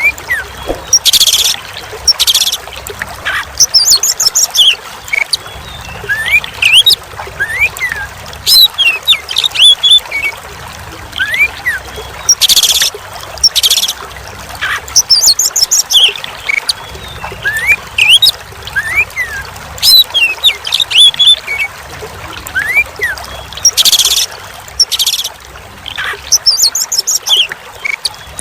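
Oriental magpie-robin song: clear whistles gliding up and down, high rapid trills and short harsh bursts, repeating the same sequence about every eleven to twelve seconds, over a steady trickle of running water.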